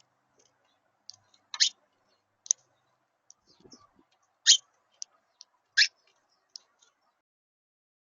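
Birds at a backyard feeder making a string of short, sharp, high clicks at an irregular pace, three of them louder than the rest.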